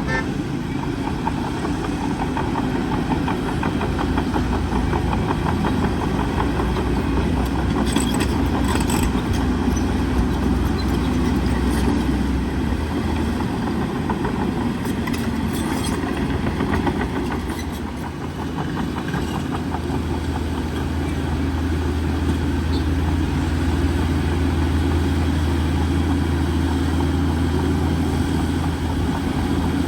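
Bulldozer's heavy diesel engine running under load, easing off briefly about two-thirds of the way through and building again, with a few short clanks along the way.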